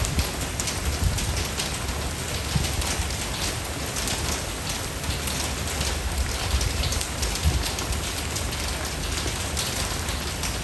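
Steady rain, with many separate drops striking close by over a continuous wash of rainfall and a low rumble underneath.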